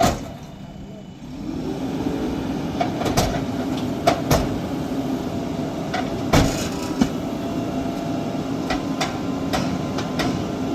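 JCB 3DX Super backhoe loader's diesel engine picking up about a second in and running steadily under load, with repeated sharp metallic clanks and knocks through it.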